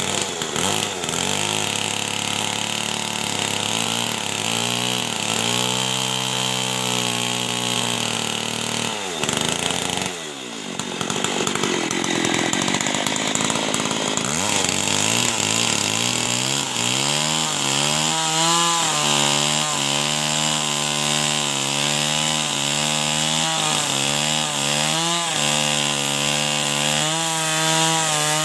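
Two-stroke chainsaw cutting through wood under load, its engine note wavering as the chain bites. About ten seconds in the revs sag and drop, then climb back to a steady high pitch.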